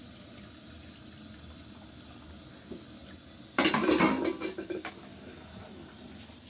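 Pots and dishes clattering in a loud burst of knocks and rattles about three and a half seconds in, lasting around a second and a half, over a faint background.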